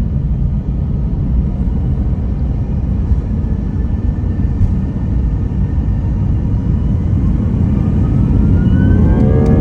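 Airbus A321ceo jet engines: a steady low rumble, joined about seven seconds in by a rising whine as the engines spool up for takeoff.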